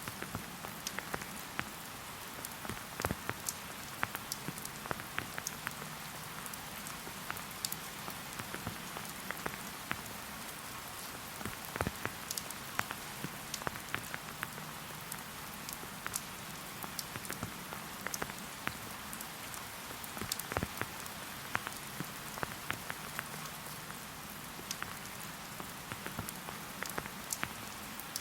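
Steady rain falling in a forest: an even hiss with many separate drops ticking irregularly throughout.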